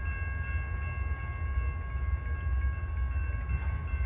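Amtrak Southwest Chief passenger train rolling past with a deep steady rumble, overlaid by a steady high-pitched squeal of several tones held throughout.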